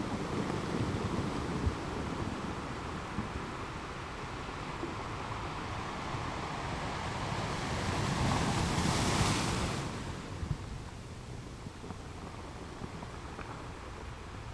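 Ocean waves washing onto a shore: a steady hiss of surf, with one wave swelling and breaking loudest about eight to ten seconds in, then falling away.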